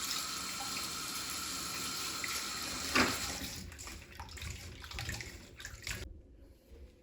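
Tap water running steadily into a kitchen sink. About three seconds in there is a sharp knock, and the flow drops away to a few small scattered clatters.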